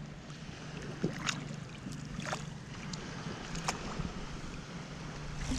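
Steady wind on the microphone and sea surf, with three or four faint clicks.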